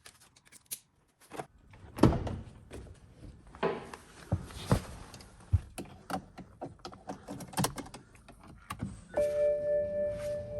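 Scattered clicks and knocks, like hand work on car parts. About nine seconds in, a steady ringing tone of several pitches starts.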